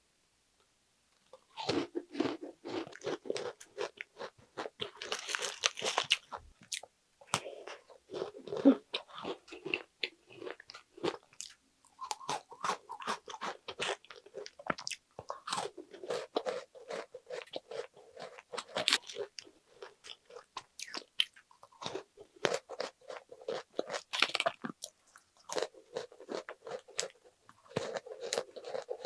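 Close-up crunching and chewing of a round chocolate cookie with a rich chocolate filling, starting about a second and a half in and going in bouts with short pauses between.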